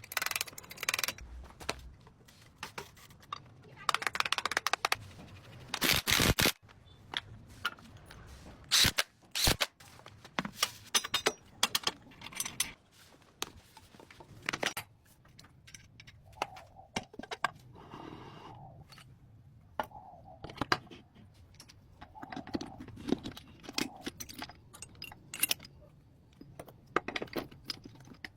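Irregular series of sharp clicks, knocks and scrapes, with a few short noisy stretches.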